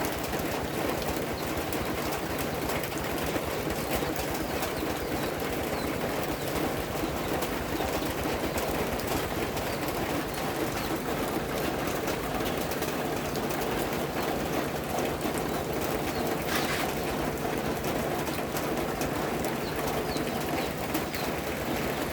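Steady rain falling, an even hiss throughout, with birds calling over it and one brief sharp sound about two-thirds of the way in.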